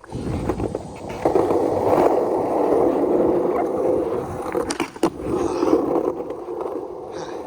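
Skateboard wheels rolling steadily over concrete, a continuous rumble that starts about a second in, with a single sharp knock about five seconds in.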